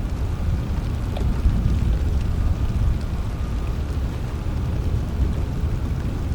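Steady rain with a continuous low rumble underneath and a few faint drips.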